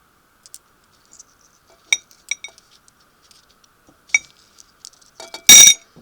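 Light clinks of small hard objects against glass, each with a brief ringing tone: a few around two seconds in and one near four seconds, then a much louder clattering clink about five and a half seconds in.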